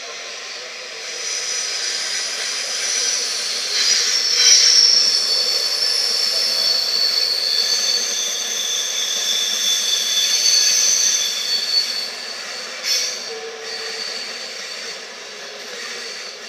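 East Coast InterCity 225 train (Class 91 electric with Mk4 coaches and driving van trailer) pulling slowly into the platform, its wheels and brakes squealing high-pitched as it slows to a stop, with a short sharp knock near the end.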